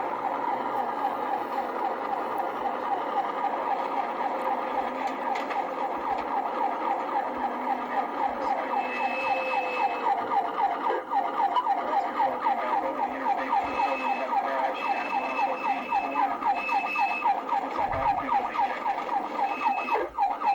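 Police car siren sounding in a fast, repeating yelp. A high steady tone sounds on and off over it in the second half.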